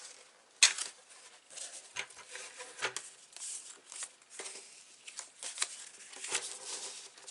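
Card stock being handled and set into place on a plastic scoring board: irregular light taps, clicks and paper rustles, with one sharp click a little over half a second in.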